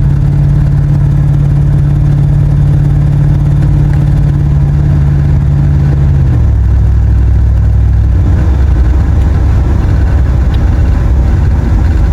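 Truck engine running on wood gas from a wood gasifier: a steady drone that drops to a lower pitch about six seconds in and holds there.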